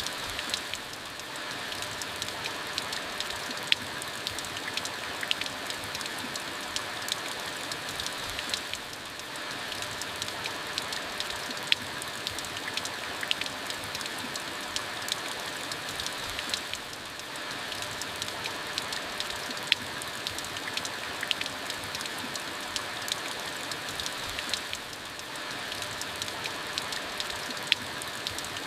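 Steady rain falling, with many individual drops ticking sharply on a surface. The rain dips slightly in loudness about every eight seconds.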